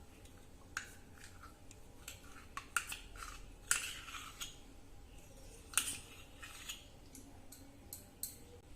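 A spoon clinking and scraping against a bowl in scattered short knocks while condensed milk is spooned in on top of the oil for cake batter.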